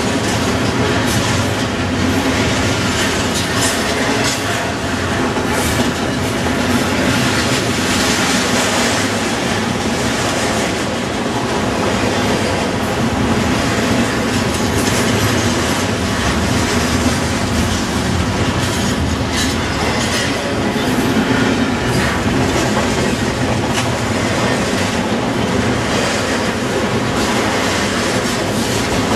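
CSX double-stack intermodal freight train's well cars rolling past close by: a steady, loud run of steel wheels on rail, with repeated clicks as wheels pass over rail joints.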